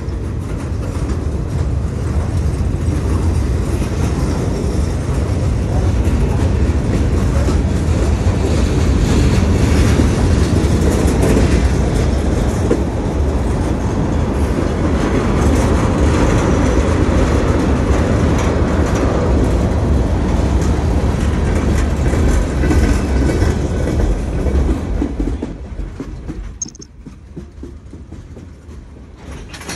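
Union Pacific freight train's cars rolling past close by: a steady, loud rumble of steel wheels on the rails, which quietens sharply near the end.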